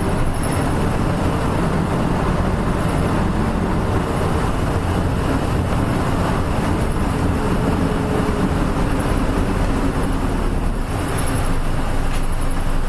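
Nissan Diesel KL-UA452MAN route bus running steadily, its diesel engine rumble mixed with road noise.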